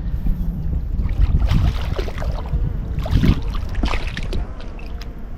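A hooked spotted bass being fought and brought to hand: irregular splashes and handling knocks at the water's surface over a steady low wind rumble on the microphone.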